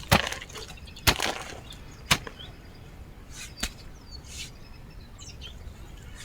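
A digging tool chopping into the soil: four sharp strikes, the first three about a second apart, then a longer pause before the fourth.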